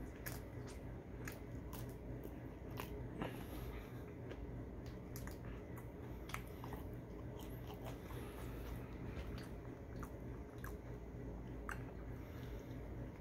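Close-up eating sounds of seasoned fries dipped in ketchup and a breakfast sandwich: biting and chewing with frequent short, sharp mouth clicks and crunches, over a steady low hum.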